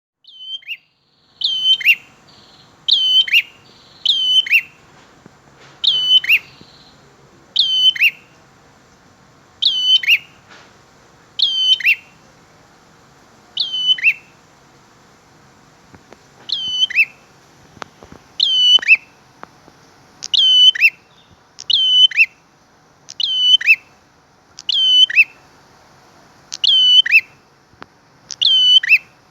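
A bird calling over and over, the same short call roughly every one and a half to two seconds: each call is a high note followed by a lower, falling one.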